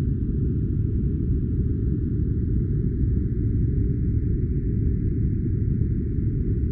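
Steady deep rumbling noise with no rhythm, pitch or breaks, and a faint higher hiss above it: a white-noise sleep track.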